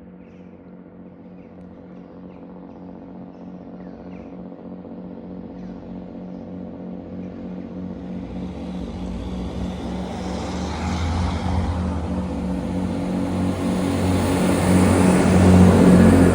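A diesel train approaching: a steady engine note with rumble and wheel-on-rail noise growing steadily louder, loudest as it draws level near the end.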